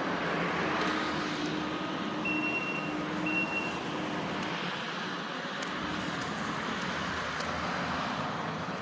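Road traffic going by, a motor vehicle passing close with a steady rushing sound, and two short high beeps a little over two and three seconds in.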